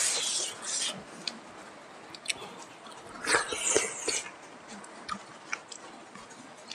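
Chewing and biting while eating smoked pork with rice by hand, in short wet bursts with scattered clicks. The busiest bursts come at the start and again about three seconds in.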